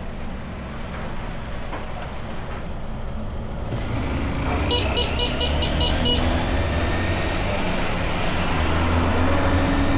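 Motorbike engine running and speeding up during an overtake, with wind rushing past; its pitch climbs in steps. About five seconds in, a horn gives a rapid string of six or seven short beeps.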